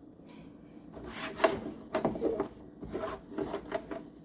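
A microwave door being wiped down by hand, in a series of short rubbing strokes, about half a dozen, that start about a second in.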